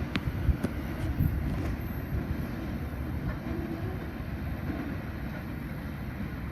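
A long freight train's wagons rolling along the rails, a steady low rumble with a few sharp clicks in the first second, slowly getting quieter.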